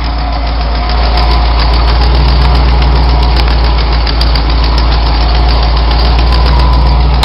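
Lifted 1996 Ford F-150's engine idling steadily through BBK headers and a straight-piped Flowmaster exhaust, a loud, even low rumble.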